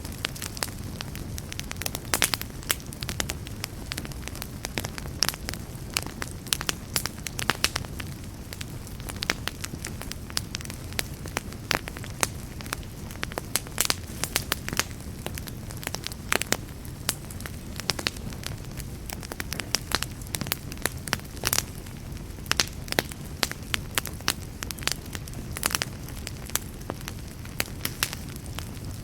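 Wood campfire burning steadily, with a continuous low rumble under frequent, irregular sharp crackles and pops.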